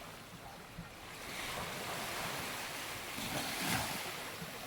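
Small waves washing up onto a sandy beach: the surf swells about a second in and is loudest near the end.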